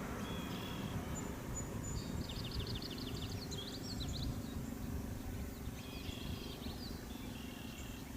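Small songbirds chirping, with a quick run of rapid chirps about two to four seconds in and more calls near the end, over a faint steady low hum.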